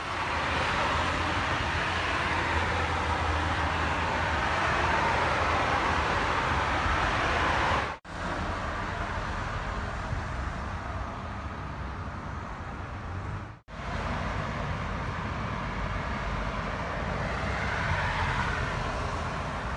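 Steady running noise of a moving vehicle, in three stretches joined by abrupt cuts about 8 and 14 seconds in.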